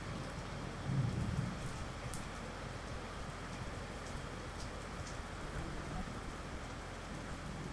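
Steady rain, with a brief low rumble about a second in and scattered faint ticks of drops.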